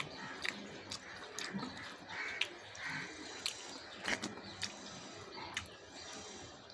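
Close-up eating sounds of rice eaten by hand: wet chewing and lip smacks, with sharp smacks scattered irregularly throughout.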